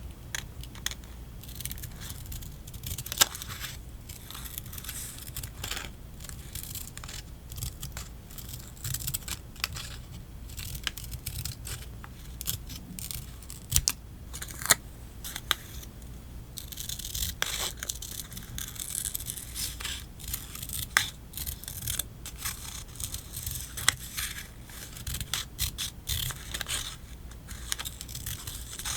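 Close-up paper-crafting sounds: sticker sheets and paper rustling and scraping, with short sharp snips and clicks from scissors cutting and stickers being peeled. The rustling is densest about two-thirds of the way through.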